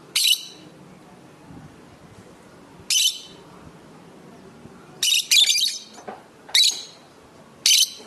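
Lovebirds giving short, shrill, harsh calls: about six calls at irregular intervals, two of them close together a little past the middle.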